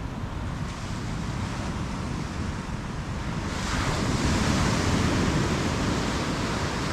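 Ocean surf washing on the shore, with wind buffeting the microphone. A wave builds about three and a half seconds in, is loudest a second or two later, then eases.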